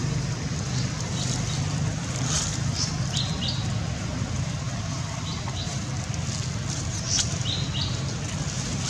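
Birds chirping in short high notes, often in quick pairs, several times over a steady low rumble.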